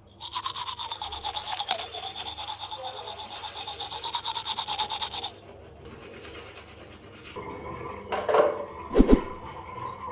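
Rapid, rhythmic scrubbing strokes for about five seconds, then softer handling noises and a single knock near the end.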